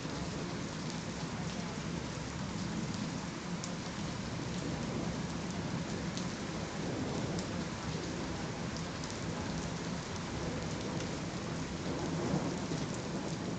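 Steady rain falling, with scattered drops ticking and a low rumble of thunder underneath.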